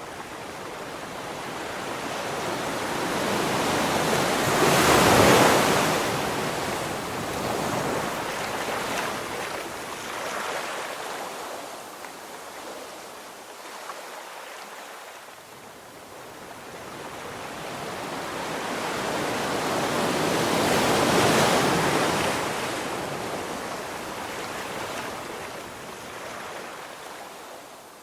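Ocean waves breaking on a beach: two waves crash, about five seconds in and again about twenty-one seconds in, each swelling to the crash and then washing back.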